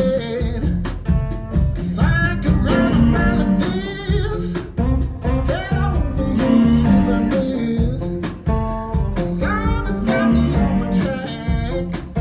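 Recorded music played back over a hi-fi loudspeaker system: a song with guitar, bass and singing.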